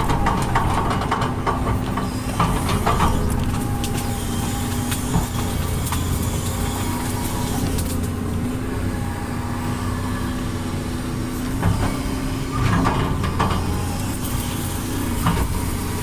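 Diesel engine of a heavy earthmoving machine running steadily under work, with bursts of metallic clanks in the first few seconds and again about three-quarters of the way through.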